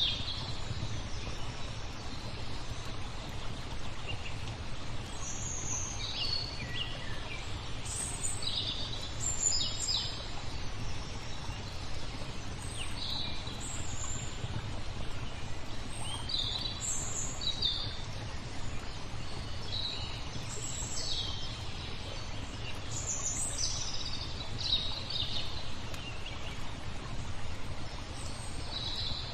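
Songbirds chirping and calling in short high phrases scattered all through, over a steady low rushing background of nature ambience.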